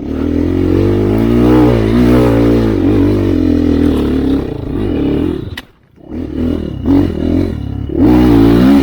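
Dirt bike engine pulling hard under throttle, dropping off sharply about six seconds in as the throttle is shut, then revving up again and pulling hard near the end.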